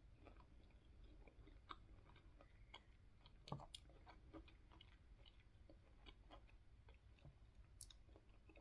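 Faint close-up chewing of soft cut mango and pineapple: many small wet mouth clicks, one a little louder about three and a half seconds in.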